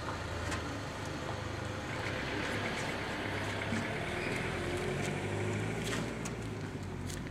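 A car engine running as a sedan pulls away from the kerb and drives off; its low hum drops away about six and a half seconds in.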